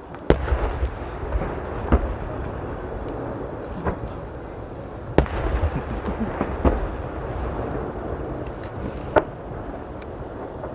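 Fireworks shells bursting: a string of sharp bangs every one to three seconds over a continuous low rumble and crackle, the loudest bang about five seconds in.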